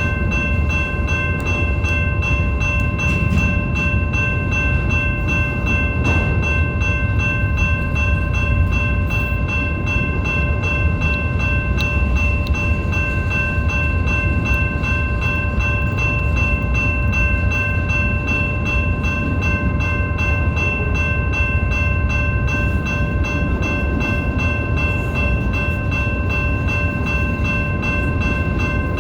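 BNSF freight train rolling past at close range: a steady, loud rumble of cars on the rails, with several steady high-pitched tones ringing over it.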